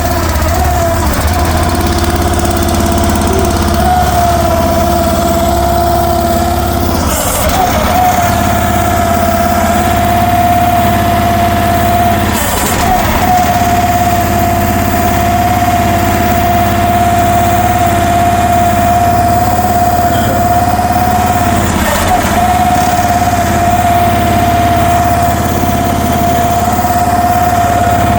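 The small gasoline engine of a Future FT15 mini excavator running steadily, with a constant high whine over the engine note and a few brief knocks.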